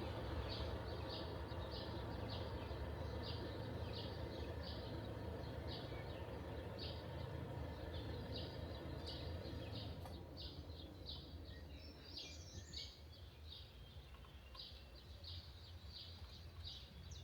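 A small bird chirping over and over, about two short high chirps a second, over a low background rumble that eases off about ten seconds in.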